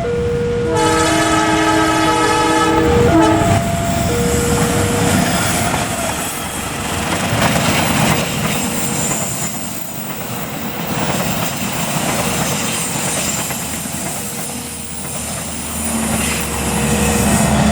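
Train horn sounding for about two and a half seconds near the start, then a train passing with its wheels clattering over the rail joints.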